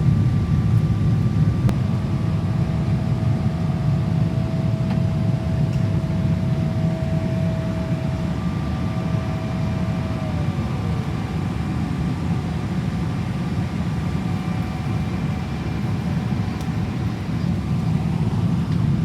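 Cabin noise of a Boeing 777-300ER airliner: a steady low rumble of its GE90 jet engines and airflow, with faint steady whining tones above it, one of which slides down in pitch about ten seconds in.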